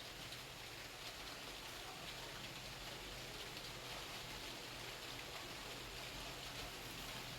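Faint, steady hiss like rain, with a low hum underneath.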